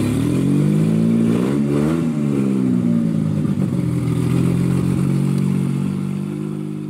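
Car engine running, revved once about two seconds in and then settling back to a steady idle, fading away near the end.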